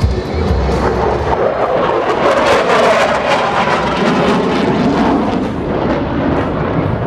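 An aircraft flying past, its noise swelling to a peak about two to three seconds in and then easing off.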